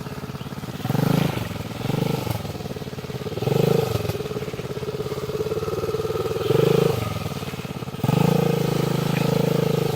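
Irbis TTR 110 pit bike's small single-cylinder four-stroke engine running at low revs, picking up in short blips of throttle several times, with a longer pull near the end.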